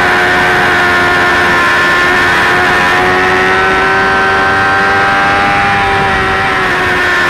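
2004 Suzuki GSX-R600 inline-four sportbike engine running hard at high revs under full throttle, its pitch climbing slowly as the bike gathers speed, heard from an onboard camera behind the fairing screen.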